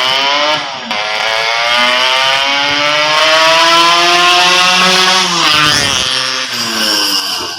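Yamaha RX-King's two-stroke single-cylinder engine blaring through an aftermarket exhaust as the bike accelerates hard. Its pitch climbs, then drops at gear changes about half a second in and again around five and a half seconds in, before climbing again.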